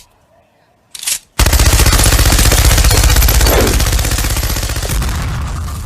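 A loud rapid-fire rattle of sharp strikes, like machine-gun fire, starting about a second and a half in after a brief single bang, and slowly fading.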